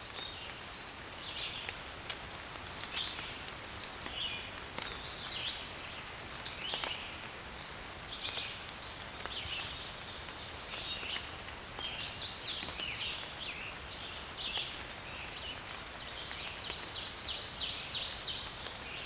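Forest ambience: several songbirds chirping and singing in short phrases over a steady hiss, with scattered faint ticks. The loudest song, a quick run of notes, comes about twelve seconds in, and the sound cuts off suddenly at the end.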